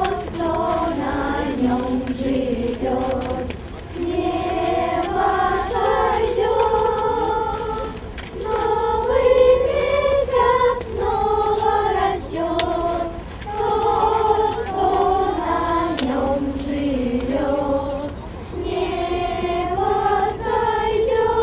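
A group of people singing a song together, phrase after phrase of a few seconds each with short breaks between.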